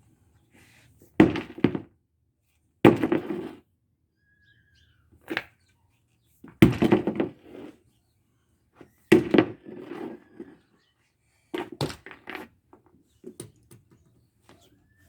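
Repeated heavy thunks as an exhaust fan's motor is struck apart: about eight blows a second or two apart, each followed by a short rattle of loose parts.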